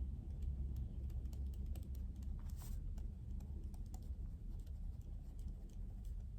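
Typing on a computer keyboard: a run of quick, irregular key clicks over a steady low hum, with a brief soft swish partway through.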